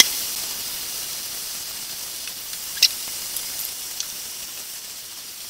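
Tempeh stir-fry sizzling in a nonstick frying pan on turned-down heat as its sweet soy and sugar glaze cooks down, the hiss slowly growing quieter. A silicone spatula stirs it, with a few light knocks against the pan.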